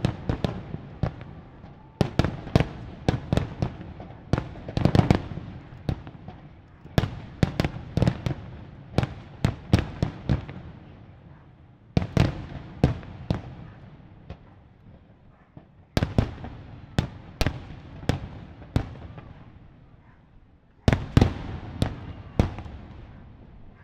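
Fireworks display: volleys of aerial shells bursting with sharp bangs and a fading rumble after each. A new volley starts about every four to five seconds.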